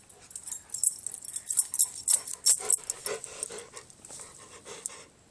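A pet dog playing with his toy, making short dog noises among a busy run of quick, irregular clicks and rustles that stop just before the end.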